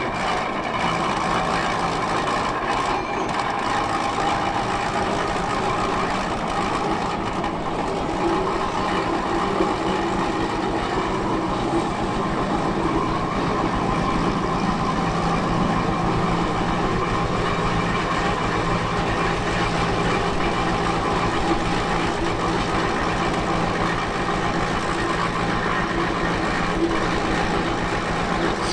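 A large vehicle running steadily, making an even, unchanging drone with several constant tones.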